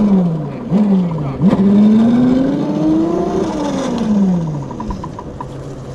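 Razor MX350 electric dirt bike's motor whining as the throttle is worked: a short fall in pitch, a brief second burst, then a longer surge that rises in pitch for about two seconds and falls away about four seconds in.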